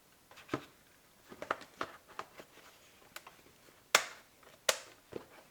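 Light plastic clicks and taps from a welding helmet being handled as a new lens is fitted, with two sharper snaps about four seconds in.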